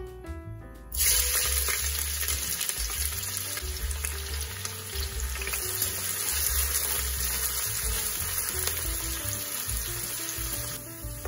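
Sliced onions hitting hot oil in a wok about a second in and sizzling, the frying starting suddenly and running on as they are stirred with a slotted ladle.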